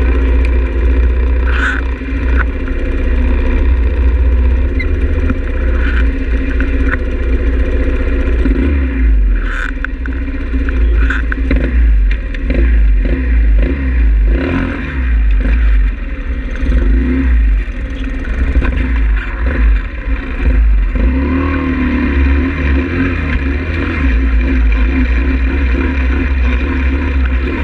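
Pit bike's small single-cylinder engine running under way, its pitch rising and falling as the throttle is worked, over a heavy, constant low rumble.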